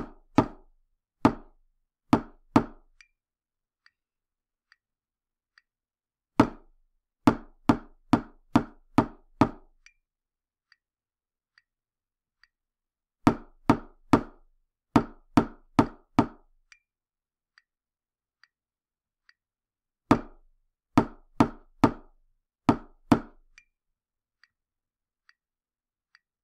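Sharp knocks, about as hollow as wood, in quick groups of five to seven strokes, one group roughly every seven seconds. Faint short ticks fall about once a second in the pauses.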